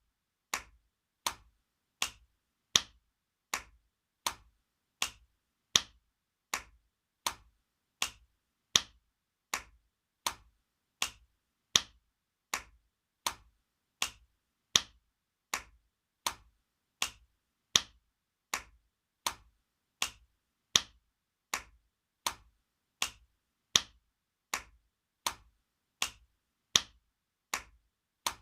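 Spanking sound effect: a sharp slap of a hand on skin, repeated at an even pace about four times every three seconds, each slap short with silence between.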